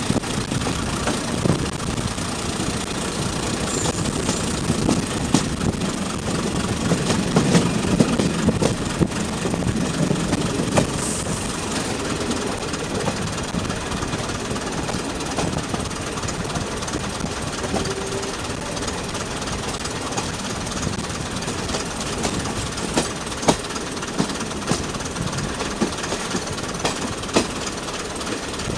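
Diesel multiple unit running along the line: a steady engine drone and running noise, with irregular sharp clicks of the wheels over the rails.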